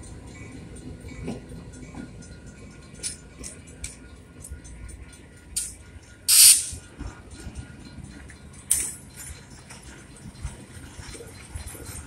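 Vintage passenger cars of the Napa Valley Wine Train rolling slowly past, with a low rumble and scattered clicks and clanks from the wheels and running gear. About halfway through comes a short, loud hiss of air, with shorter hisses just before and after it.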